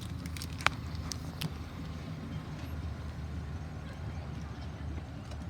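Golf cart riding along, a steady low rumble of motor and wheels, with a few sharp clicks or rattles in the first second and a half.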